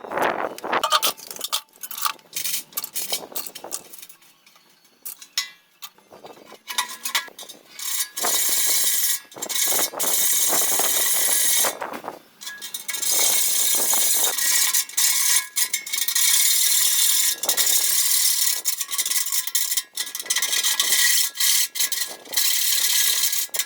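Workshop tool sounds: scattered clicks and scrapes, then, from about a third of the way in, long stretches of steady hissing noise from a tool working on material, stopping and starting a few times.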